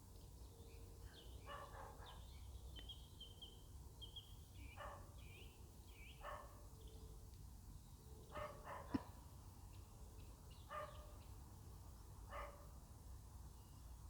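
Faint dog barking, single short barks spaced a second or two apart, with two close together about eight seconds in. Small birds chirp in the first half.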